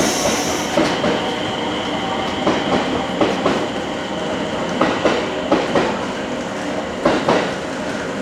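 Electric multiple-unit train rolling slowly through the station, its wheels clicking over rail joints in pairs, about six pairs, over a steady running rumble.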